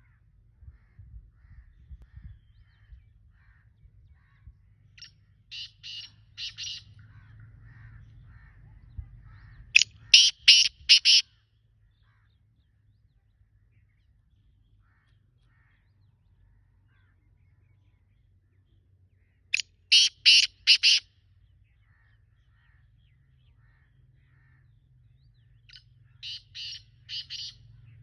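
Black francolin calling: four bouts of its harsh, grating call, each a quick run of four or five notes. Two bouts are loud and two are fainter. Faint small chirps come in between.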